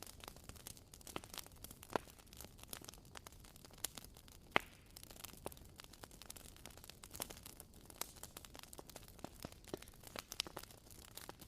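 Wood fire burning, crackling and popping at irregular moments over a faint steady hiss, with a sharper pop about four and a half seconds in.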